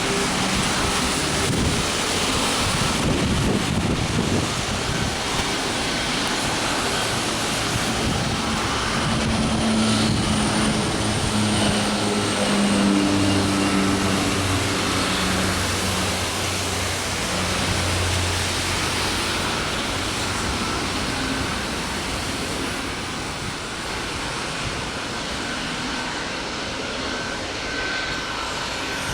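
A jet airliner's engines running under a steady hiss of noise, with a low engine hum that builds and is strongest about halfway through.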